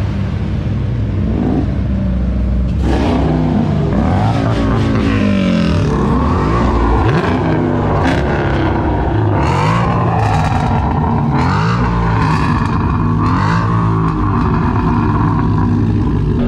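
Muscle car engine revving repeatedly over a deep rumble, its pitch climbing and falling again and again.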